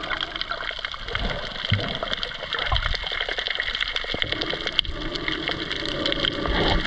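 Underwater sound picked up by a diving camera: a dense, steady crackle of tiny clicks with some gurgling and a few soft low thumps.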